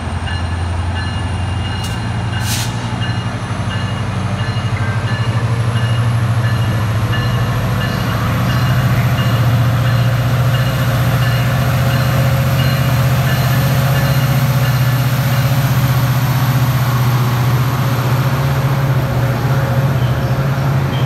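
Metrolink commuter train's diesel locomotive pulling away from the station. Its low engine drone rises in pitch and grows louder over the first several seconds as it throttles up, then holds steady as the bilevel coaches roll past.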